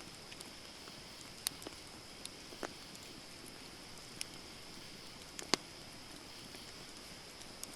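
Campfire wood burning, crackling with scattered sharp pops, the loudest about five and a half seconds in, over a steady high hiss.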